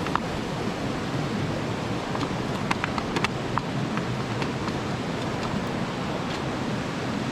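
Mountain stream rushing steadily over rocks, with light clicks here and there.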